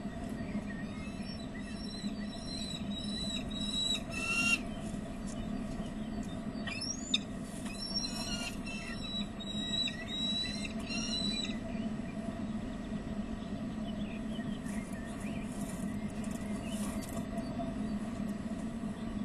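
Short high bird chirps in quick runs through roughly the first half, over a steady low hum, with one sharp tap about seven seconds in.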